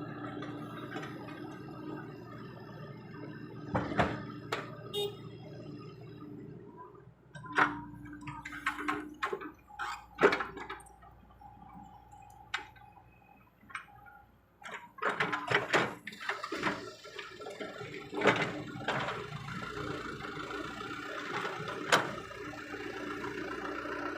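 Excavator diesel engine running with a steady hum, broken by repeated sharp clanks and knocks from the bucket and soil being loaded into a dump truck bed. The engine drops quieter for several seconds in the middle, then picks up again.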